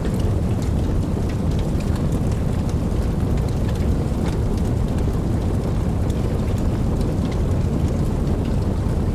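Steady rainfall with scattered individual drops ticking, over a deep continuous rumble of distant thunder.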